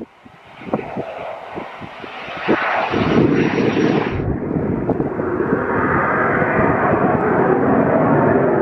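Fixed-wing aircraft engine, growing louder about three seconds in and then holding loud and steady. A high thin whine cuts off about four seconds in.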